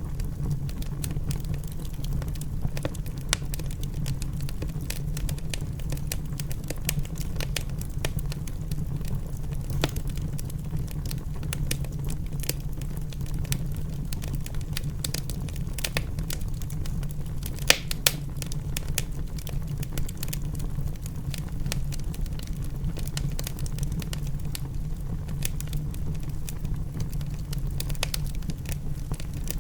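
Wood fire in a fireplace crackling, with frequent small pops and two louder pops about 18 seconds in, over a steady low rumble.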